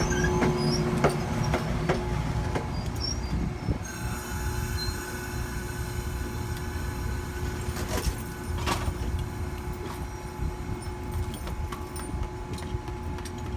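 Amtrak Adirondack passenger train rolling on the rails: a steady rumble with a steady tone underneath and scattered sharp clicks from the wheels over rail joints, easing slightly after about four seconds.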